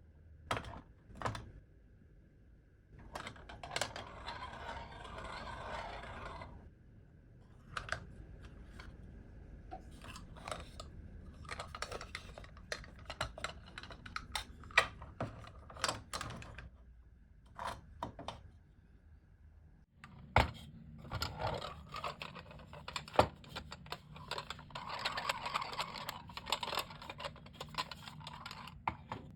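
Close-up handling noises from restoring an old hand coffee grinder: scattered clicks and taps of small parts being handled, with two longer stretches of scraping, one a few seconds in and one near the end.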